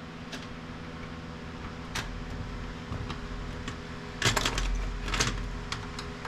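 Clicks and light knocks of plastic and metal printer parts being handled and pried during disassembly: a few scattered sharp taps, with a busier clatter about four to five seconds in, over a steady low hum.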